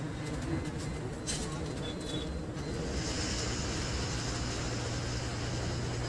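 Engine and road noise of an Ashok Leyland BS6 bus on the move, heard from inside the driver's cabin: a steady low hum, with a few brief clicks in the first couple of seconds.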